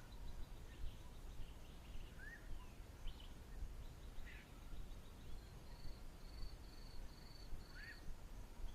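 Faint outdoor ambience: low steady background noise with a few short bird chirps and rising whistles, and a short run of evenly spaced high notes about two-thirds of the way in.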